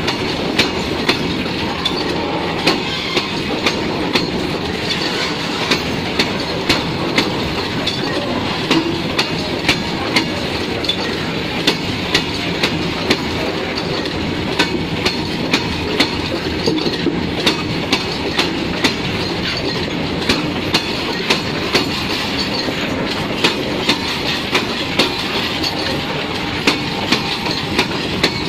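Freight train of oil tank wagons rolling past at close range: a steady rumble of wheels on rail, with sharp clacks about twice a second as the wheelsets pass over the rail joints.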